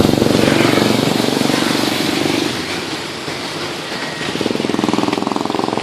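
Heavy rain pouring down, a loud, steady hiss that dips slightly about halfway through and then swells again.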